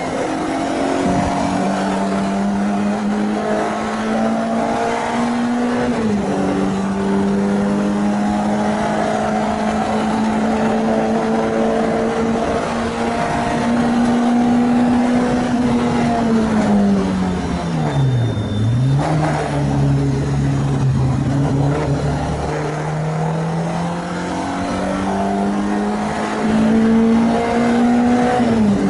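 Renault Clio 2 RS's 2.0-litre four-cylinder engine pulling hard on track on its first run after a rebuild, pitch climbing through the gears with an upshift about six seconds in. About two-thirds of the way through the revs fall steeply as it slows for a corner, then climb again, with another shift near the end.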